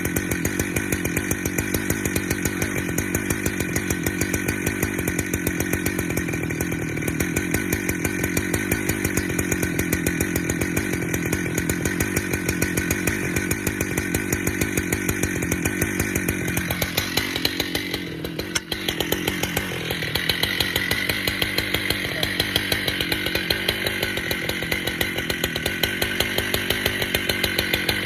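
Husqvarna chainsaw running hard, bucking red oak logs. The engine note dips briefly about two-thirds of the way through, then the saw runs steadily again.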